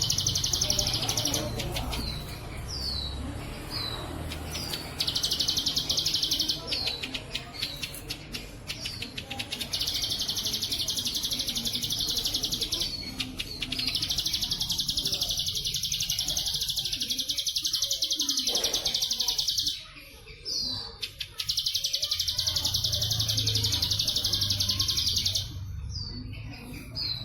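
A ciblek sawah (a small prinia) singing: long, rapid buzzing trills lasting several seconds each, alternating with short down-slurred chirps. The buzzing trills are the 'bren' fill of the Cililin song style.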